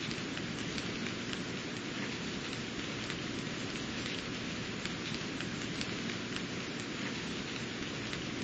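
Steady rain falling on garden plants: an even hiss scattered with the small ticks of single drops.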